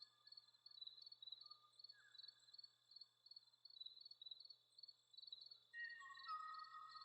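Faint nature ambience said to be Kauai bird sound: a high chirp repeating several times a second, and long held whistled notes that step down in pitch, one about two seconds in and a louder pair near the end.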